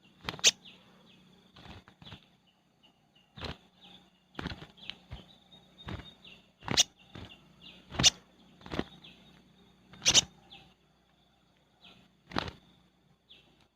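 Spiderhunter giving short, sharp single call notes, about ten of them at irregular intervals of one to two seconds, over a faint steady high-pitched drone.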